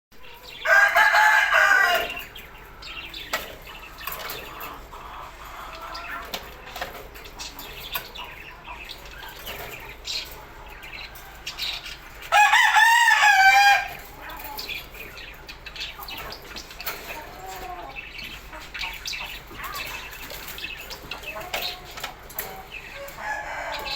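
Two loud, wavering bird calls about eleven seconds apart, each lasting about a second and a half, with fainter calls in between.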